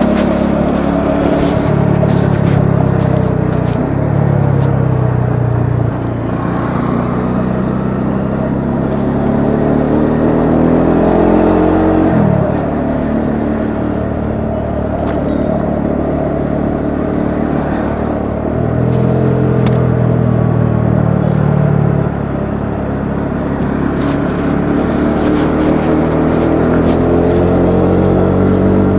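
Bajaj Dominar 400's single-cylinder engine and exhaust pulling hard and accelerating. The note climbs in pitch several times and drops suddenly at each upshift, most plainly about twelve seconds in and again near the end.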